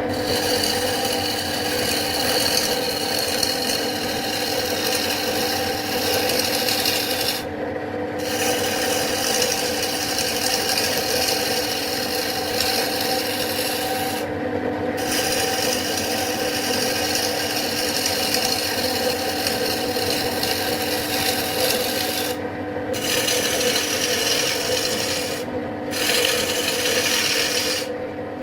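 Continuous rubbing of a tool or abrasive against wood spinning on a wood lathe, over the steady hum of the lathe. The rubbing breaks off briefly about five times while the hum carries on.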